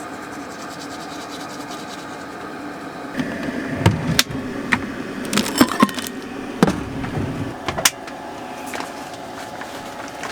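A steady mechanical hum, with a run of sharp knocks and clatters, like objects being handled and set down, from about three to eight seconds in.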